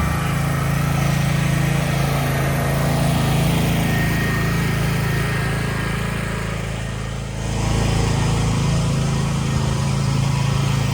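A steady low hum like a small engine running, dipping briefly about seven seconds in and then returning.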